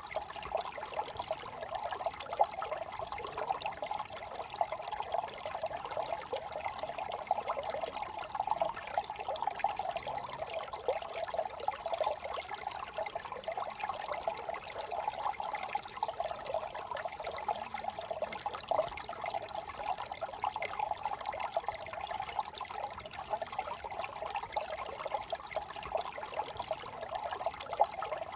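Small brook trickling and babbling over stones, a steady flickering water sound with many small splashes and gurgles.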